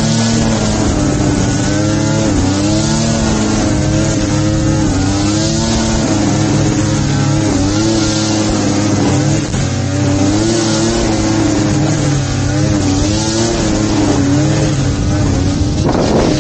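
Small petrol engine of a grass-cutting machine running at high speed, its pitch dipping and recovering every second or two.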